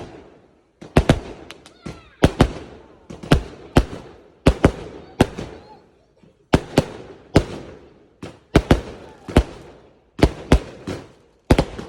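Fireworks going off in an irregular rapid series of sharp bangs, often two or three close together, each followed by a short fading crackle.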